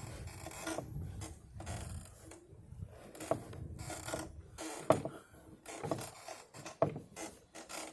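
Loaded wheelbarrow being rolled over rough ground, its frame and wheel rattling and creaking, with several sharp knocks.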